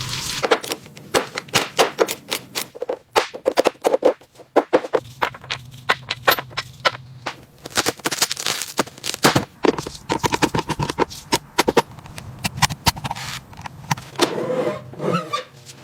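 Rapid, irregular clicking and knocking of hand tools on metal car parts during teardown work.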